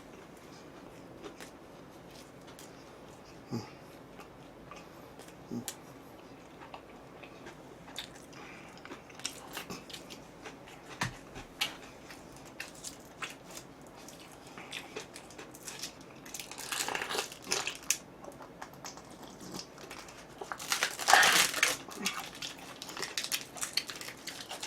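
Close-up eating sounds: quiet chewing and small clicks, with crunchy bites into crispy fried chicken about sixteen seconds in and again about twenty-one seconds in, the second the loudest.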